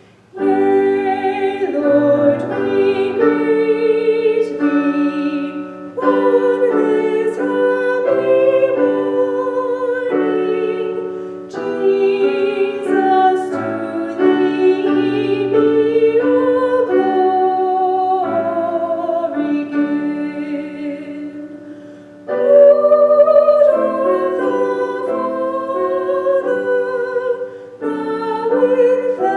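A solo singer in a classical style, with vibrato, singing a hymn over piano accompaniment, in phrases separated by short breaths.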